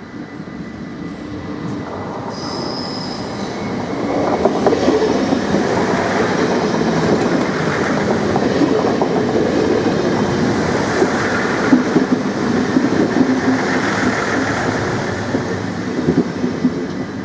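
NS Sprinter passenger train running through the station level crossing. It grows louder over the first few seconds, then comes a sustained rumble of wheels on rail with irregular clicks and clacks over the joints. A short high squeal sounds about two seconds in.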